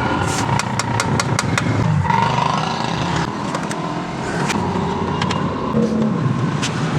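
Honda CD 70 motorcycle's small single-cylinder four-stroke engine running, with a run of sharp clicks over it for the first second and a half and a few more later.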